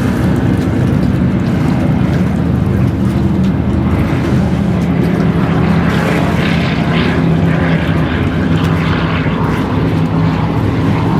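Performance powerboat engines running steadily with a deep, even drone.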